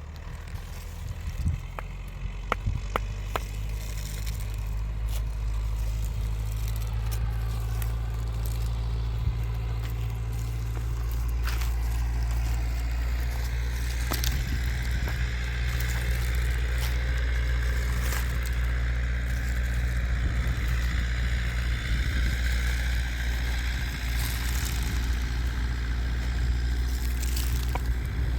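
Engine running steadily with a low hum, louder after the first few seconds, with scattered clicks and scrapes over it.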